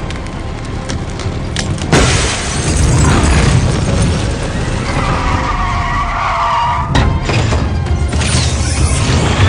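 Movie car-chase sound effects: car engines running hard under a low rumble, with a sharp hit about two seconds in. Tyres screech for a couple of seconds near the middle, and a second hit follows about seven seconds in, all over a music score.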